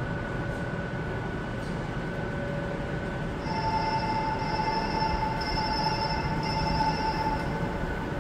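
Steady hum on a light-rail station platform. About three and a half seconds in, a high tonal whine from a Yongin EverLine light-rail train sets in and holds for about four seconds before fading.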